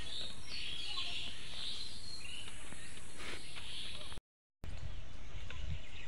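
Small birds chirping and calling in the trees over a steady low background rumble. The sound cuts out completely for a moment about four seconds in.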